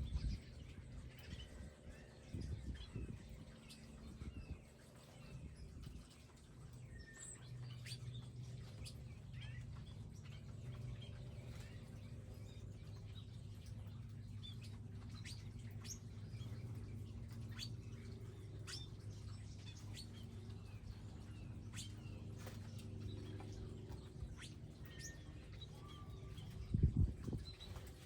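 Small wild birds chirping and calling off and on at a feeding area, short high notes scattered throughout over a steady low hum. A few low thumps, the loudest near the end.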